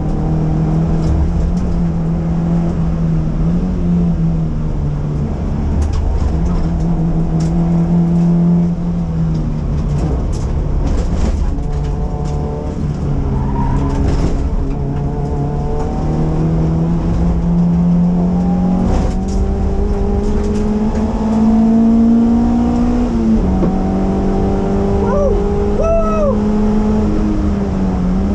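Honda CRX ED9's ZC (D16A9) 1.6-litre four-cylinder engine under hard acceleration, heard from inside the car. It breathes through Supersprint headers and a Togheishop exhaust. The engine note climbs steadily through long pulls and drops back at shifts and lifts, with a short tyre squeal near the end.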